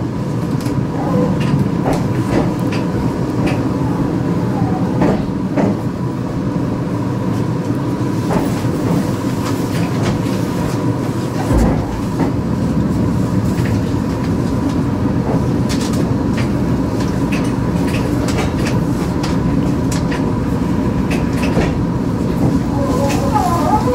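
Meitetsu electric commuter train running slowly into a station platform, heard from the driver's cab: a steady rumble of wheels on rail with scattered rail-joint clicks and a thin steady whine. Wheel squeal starts near the end as it draws up.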